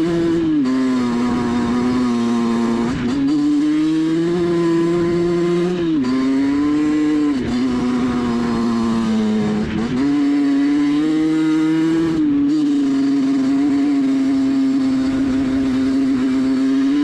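Rieju MRT 50's small two-stroke single-cylinder engine running at high revs. Its note holds steady for a few seconds at a time, then dips or rises in pitch as the throttle changes: a drop about half a second in, rises near 3 and 10 seconds, and dips near 6 and 7.5 seconds.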